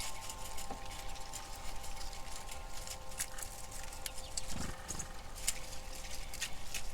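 Squirrels eating at a platform feeder: irregular sharp clicks and cracks of teeth on nut shells and claws on the boards, with one soft thump about four and a half seconds in, over a faint steady hum.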